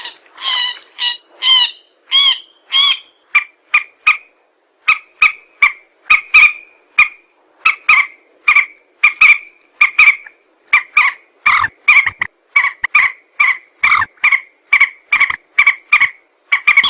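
Lure-call recording of a mandar (rail-family bird) calling: a few drawn-out, wavering calls, then a long run of short, sharp calls repeated about three a second. It is a lure call played to draw mandar birds in.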